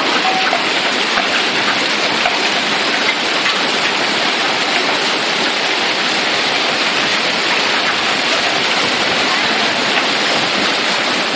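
Heavy rain falling: a steady, even hiss of water with no let-up.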